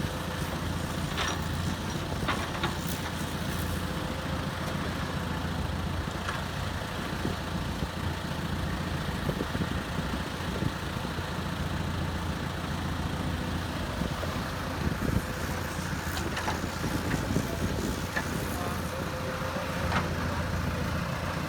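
Heavy diesel engine of construction machinery running steadily, with a few light knocks now and then.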